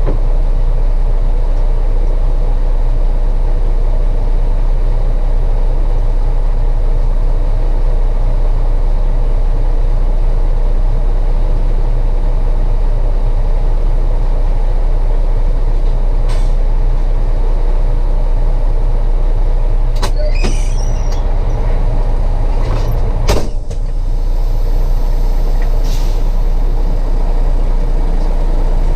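Heavy truck's engine running steadily, heard loud and low from the cab. A few sharp clicks come about twenty seconds in, then a single sharp knock a few seconds later.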